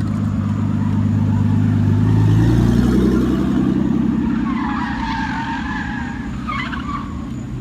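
Car engine revving, its pitch climbing to its loudest about two to three seconds in, then easing off and fading. A wavering high squeal comes in about five to seven seconds in.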